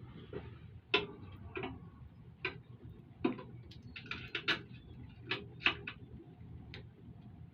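Metal hand tools and bolts clicking and tapping as rack-mounting bolts are fitted: about a dozen sharp, irregularly spaced clicks, some in quick clusters, over a low steady hum.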